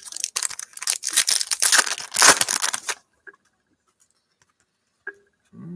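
Trading-card pack wrapper being torn open and crinkled: a dense crackling run lasting about three seconds.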